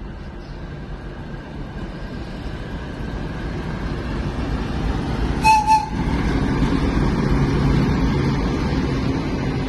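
ChME3 shunting diesel locomotive running and growing steadily louder as it draws near, its engine rumble rising. About five and a half seconds in, it gives two short toots on its horn.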